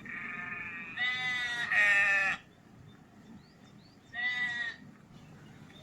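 Sheep bleating: a run of long, wavering bleats over the first couple of seconds, then one shorter bleat about four seconds in.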